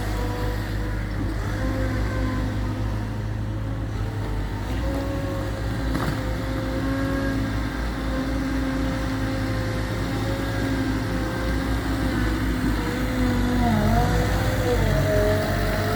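Gehl V420 skid steer's diesel engine running continuously with a steady whine. The whine wavers in pitch, dips and climbs again about 13 seconds in, and gets slightly louder there.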